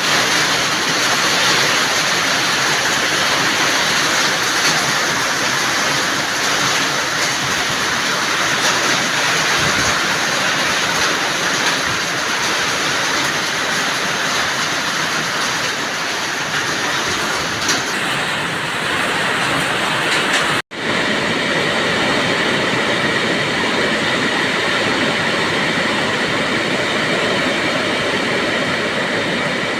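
Steady rain falling, an even hiss. About two-thirds of the way through it drops out for a split second and comes back slightly duller.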